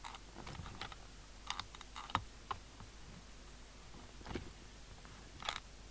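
Scattered light clicks and taps, about seven over six seconds, from hands handling equipment on a radio repair bench, over a faint steady low hum.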